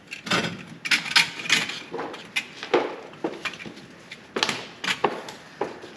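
A run of irregular clinks and knocks as hard objects are handled and set down, about a dozen sharp strikes spread across a few seconds.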